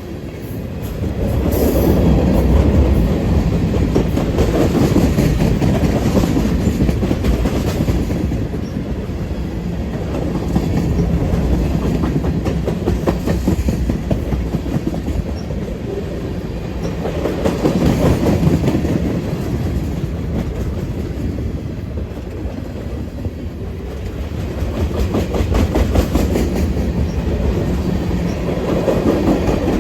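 A train rolling past, its wheels clicking over the rail joints in a steady clickety-clack under a continuous low rumble that swells and eases several times.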